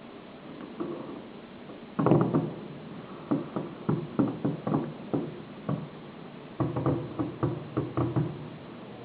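Fireworks going off: a rapid series of sharp bangs in clusters, a burst about two seconds in, then single bangs every few tenths of a second, and a dense volley near the end.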